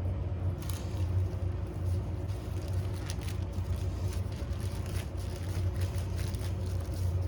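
A steady low hum, like a motor or fan running, with scattered light clicks and taps over it.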